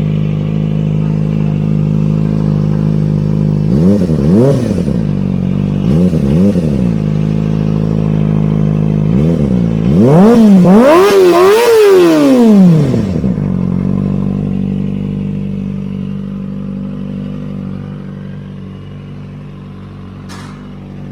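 Kawasaki ZX25R's 250 cc inline-four idling through a Villain R11 aftermarket exhaust. It is blipped twice, about 4 and 6 seconds in, and once more briefly, then revved in a quick series of rises and falls from about 10 to 13 seconds before settling back to a steady idle that grows quieter near the end.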